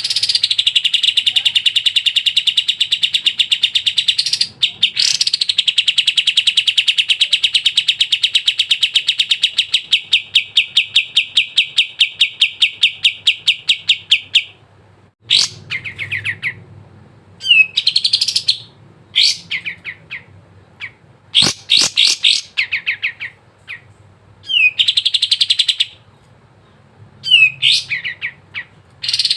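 A kapas tembak (white-shouldered triller) singing: two long, fast trills of rapidly repeated notes, the first about four seconds and the second about nine seconds, then shorter bursts of down-slurred notes with brief pauses between them.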